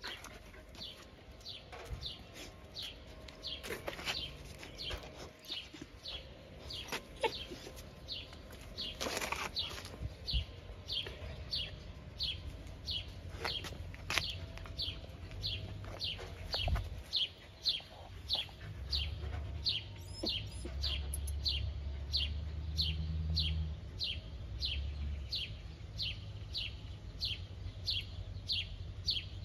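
A bird calling over and over, a short high falling chirp about twice a second, with scattered knocks and rustles over it.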